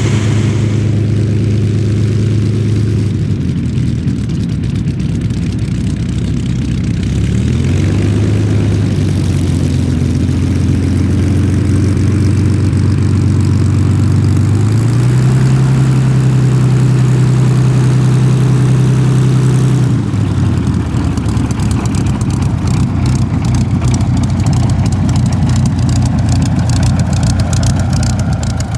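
Supermarine Spitfire's Rolls-Royce Merlin V12 engine running steadily, with its pitch stepping up twice as power is changed, then dropping and turning rougher near the end.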